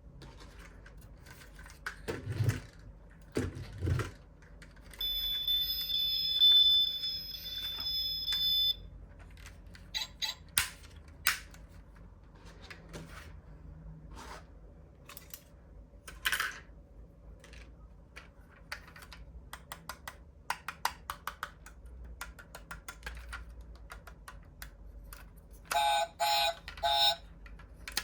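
Diecast toy cars being handled, with a run of small clicks and knocks from plastic and metal parts. About five seconds in, an electronic toy sound module gives a steady high beeping tone for roughly four seconds, and a quick series of short electronic beeps comes near the end.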